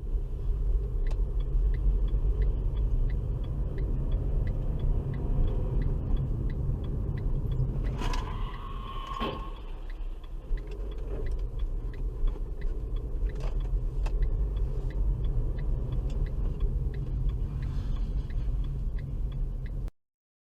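Dashcam recording from inside a moving car: steady low road and engine rumble with a faint regular ticking. About eight seconds in comes a sharp knock, then a short held tone, then a second knock a little over a second later.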